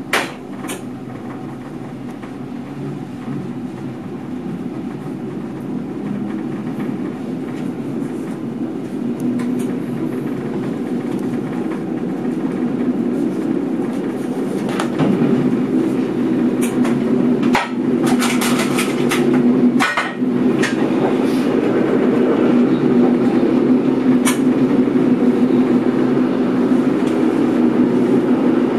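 NS mat '64 electric multiple unit running, heard from inside the driver's cab. The running noise grows steadily louder over the first twenty or so seconds as the train gathers speed, then holds steady. There is a metallic clank right at the start and a cluster of clicks and clatters from the wheels over the track about halfway through.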